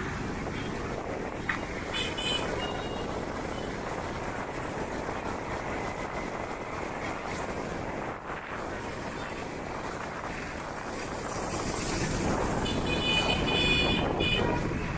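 Steady vehicle and road noise, swelling louder near the end, with short high-pitched tones about two seconds in and again near the end.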